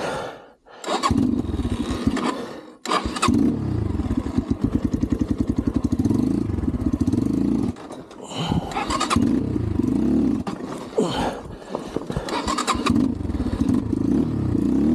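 Single-cylinder 250cc dirt bike engine revved hard in bursts on a steep climb. It cuts out suddenly a couple of times and picks straight back up: the bike is bogging and stalling, which the owner puts down to the carburettor idle screw being set too low.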